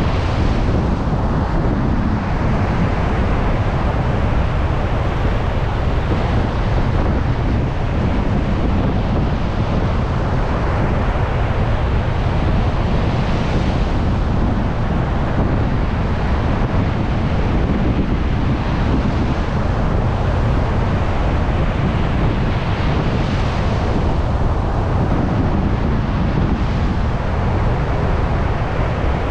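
Heavy surf on a stormy beach: a continuous loud wash of breaking waves, with strong wind buffeting the microphone as a deep rumble. The hiss of the surf swells and fades every several seconds as waves break.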